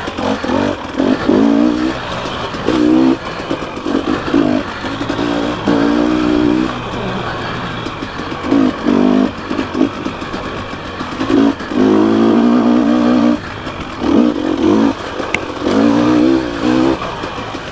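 Dirt bike engine being ridden on technical singletrack, revving up in short bursts of throttle again and again and falling back between them.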